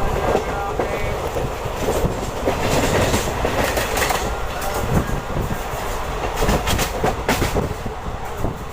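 Deccan Queen express coaches running along the track: a steady rumble of wheels with repeated clacks as they pass over rail joints.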